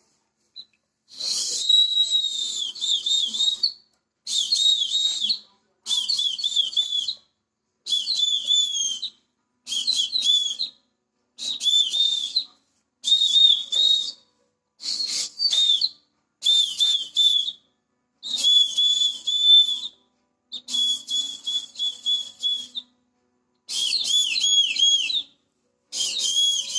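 A pet talking bird whistling a string of about thirteen short, high phrases, each one to two seconds long with a quickly wavering pitch, separated by short pauses.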